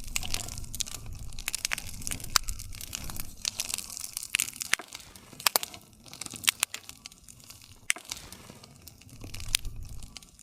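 Wood campfire crackling: irregular sharp snaps and pops of burning wood over a low rumble of the flames.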